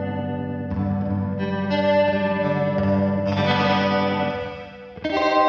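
Electric guitar chords played through a Big Ear Pedals Albie multi-effect pedal on its final mode, ringing out with chorus-like shimmer. The sound pulses with a fast, hard tremolo and has a slower tremolo warbling through it. A new chord is struck about every one to one and a half seconds.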